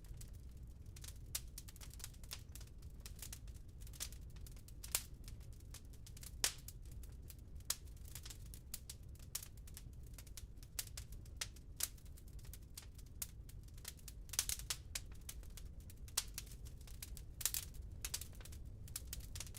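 Wood burning in a fireplace: irregular crackles and pops of the burning logs over a low steady rumble of the fire, with a few louder pops scattered through.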